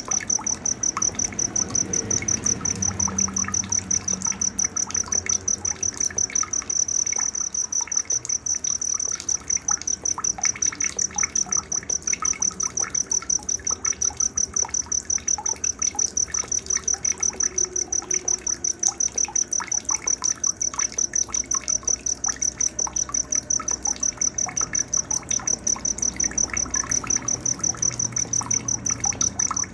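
Night nature ambience: an insect trills in an even, high-pitched pulse of about four beats a second, the loudest and steadiest sound throughout. Scattered short bird chirps come and go beneath it.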